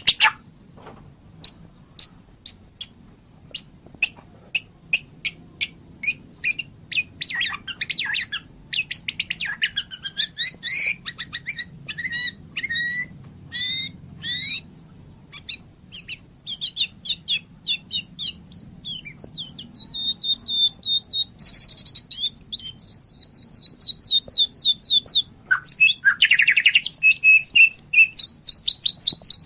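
White-rumped shama (murai batu) singing: a string of sharp, separate chirps in the first several seconds, then varied whistled phrases and quick chattering trills, with a long rapid trill in the last few seconds.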